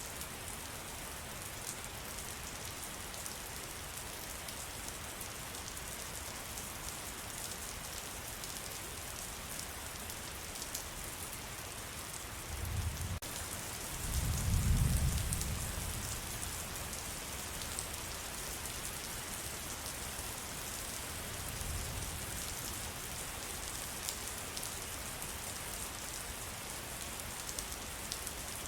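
Steady rain falling in a forest, a dense patter of drops. About halfway through, a low rumble swells and fades over a few seconds, with a fainter one later.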